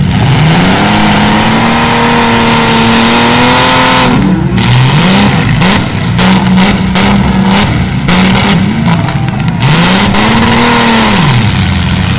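Demolition derby cars' engines revving hard, the pitch rising and falling: one long held rev, then a string of short revs, then another long rev near the end. Several sharp bangs during the short revs, as the cars crash into each other.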